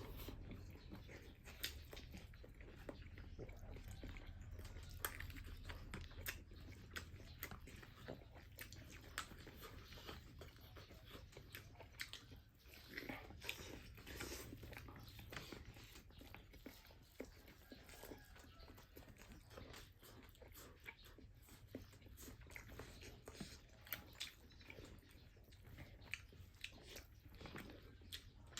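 Quiet chewing and biting of crunchy food, a run of many short, irregular crunches and clicks from the mouth.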